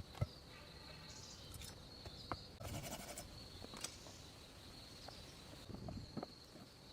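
Faint steady high-pitched insect trill, with a few scattered knocks and taps.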